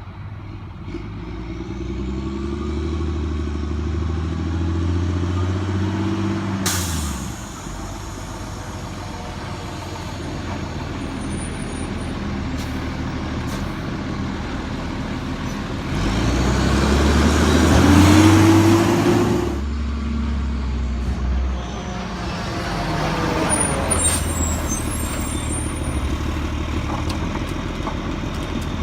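Lodal Evo refuse truck's engine revving up twice, about a second in and again past the middle, each time settling back to a lower steady run. A short sharp burst of noise cuts in where the first rev drops, near the seventh second.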